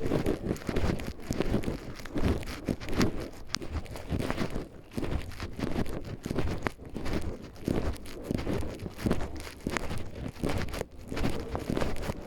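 Footsteps on a forest trail: an uneven run of steps with rustling underfoot.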